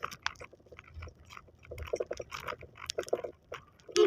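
Someone chewing a pandesal bread roll close to the microphone: a run of small, irregular mouth clicks and smacks.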